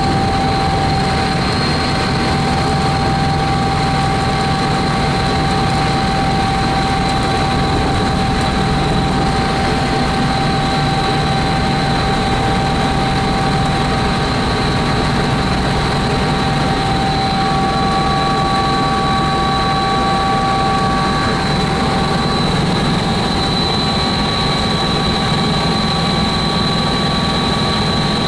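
Helicopter in steady flight heard from aboard: a constant engine whine over a dense, even rush of rotor and engine noise.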